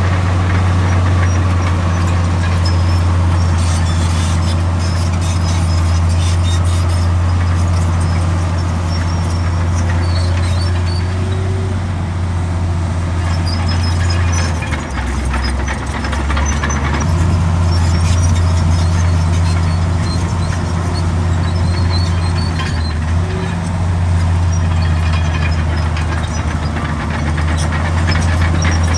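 Heavy diesel engine of earthmoving machinery running steadily, with short high squeaks scattered over it. The engine note drops briefly about halfway through, then comes back up.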